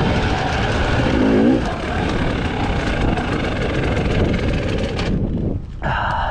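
Husqvarna TE 300i two-stroke enduro engine running under changing throttle, revving up about a second in. About five seconds in the engine note falls away, and a short pitched sound follows near the end.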